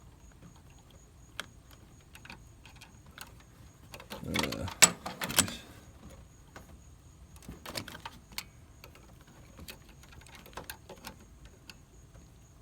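Scattered small clicks and rattles of handling, with a louder burst of clattering clicks about four to five seconds in and another, shorter, near eight seconds.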